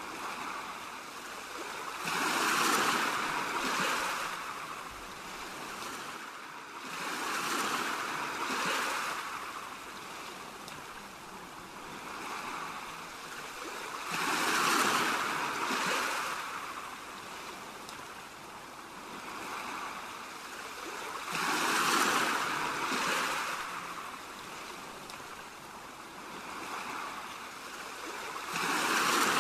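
Ocean waves washing in as a steady hiss, swelling and falling away about every seven seconds, with smaller swells in between.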